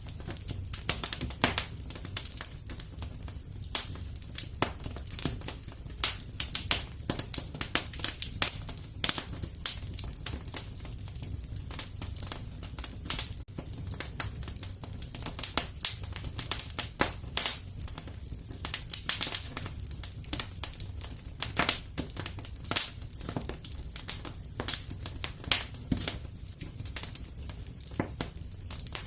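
Fire crackling in a fireplace, with irregular sharp pops and snaps over a steady low rumble.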